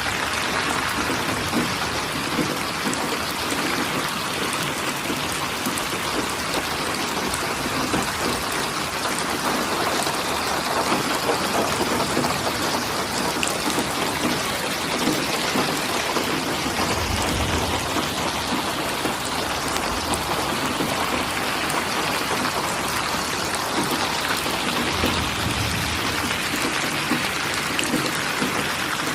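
Steady rain falling, a constant hiss of many drops hitting surfaces. Two brief low rumbles come through, a little past halfway and again near the end.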